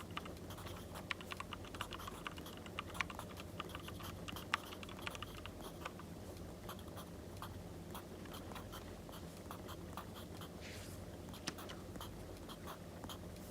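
Crackling wood fire, popping in irregular light clicks over a steady low background. About eleven seconds in comes a short scratchy rustle of pencil or paper.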